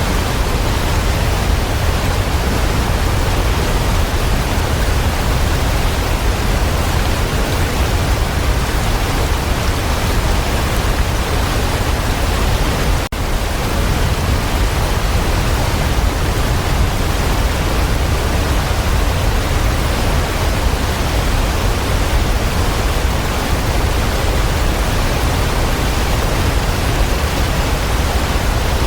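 Waterfall: a steady, even rush of falling water, heaviest in the low end, that dips for an instant about halfway through.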